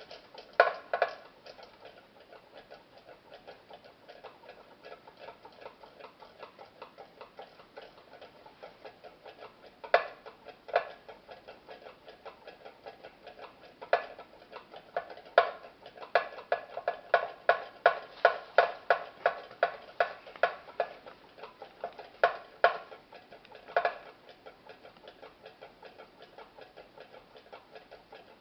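Light metallic ticking of a brass bird cabinet pull rocking on an aluminum pie-pan lid heated by a tealight, the rocking driven by the metals expanding and contracting. Faint clicks come about three a second, with louder clicks scattered among them and a dense run of loud clicks in the middle.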